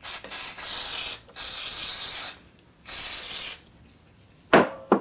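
Aerosol spray can hissing in three bursts of about a second each, then two short knocks near the end.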